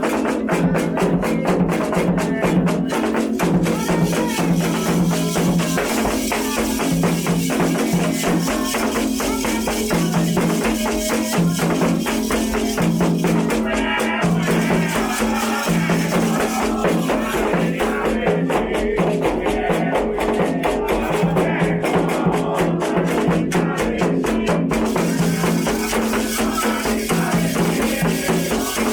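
Candomblé ritual music: a fast, steady rhythm of shaken rattles and drums.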